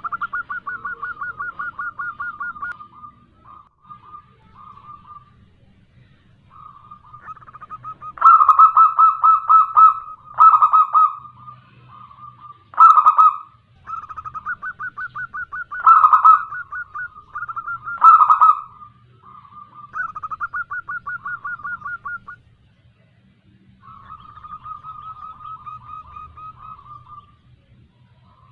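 Zebra dove (perkutut) calling in a series of rapid pulsing coo phrases, each two to three seconds long with short pauses between, some much louder than others. This is a female's call, used as a lure to draw answering song from males.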